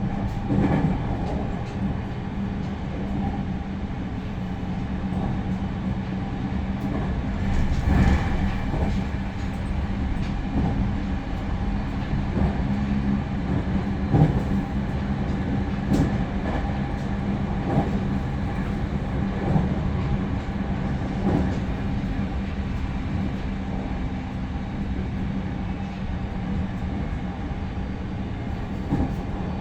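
JR Central 315 series electric train heard from inside the carriage while running: a steady, fairly quiet rolling hum with rail-joint clacks about every two seconds.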